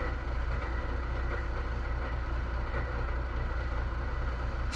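Truck engine running steadily with a low, even rumble.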